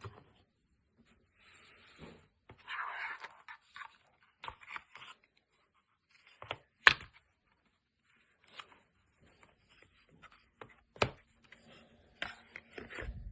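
Apple Watch packaging being handled: paper and cardboard rustling and scraping, with a few sharp clicks or taps, the loudest about seven seconds in and another about eleven seconds in.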